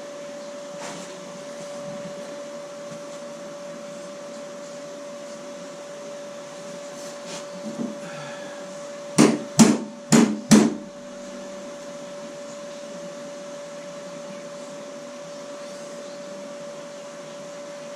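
Four sharp knocks in quick succession about halfway through, the sound of a hammer tapping the steel repair panel on a car door, over a steady hum.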